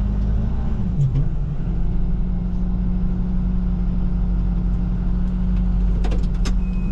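Plow truck's engine running steadily at low speed, heard from inside the cab as a deep, even hum, with a few light clicks about a second in and again near the end.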